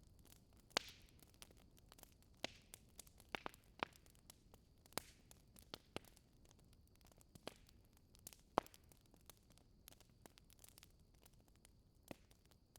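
Wood fire crackling faintly in a fireplace: irregular pops and snaps over a low hiss, with sharper snaps under a second in and again about two-thirds of the way through.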